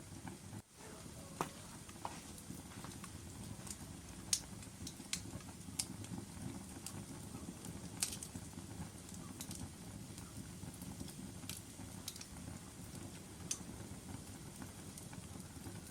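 Wood fire in a fireplace crackling: a steady low rush of flames with irregular sharp pops and snaps from the burning logs. The sound briefly drops out just under a second in.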